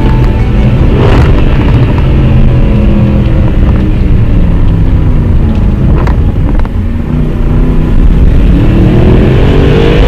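Mercedes-Benz SLS AMG's 6.2-litre V8 running under way, its revs falling over several seconds and then rising again near the end. There are two brief cracks, about a second in and about six seconds in.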